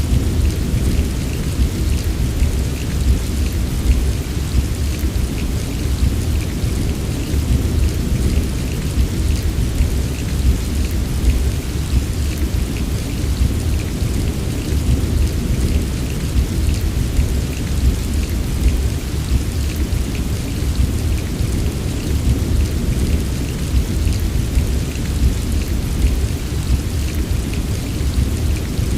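Heavy rain falling steadily, a dense patter of drops over a constant deep rumble.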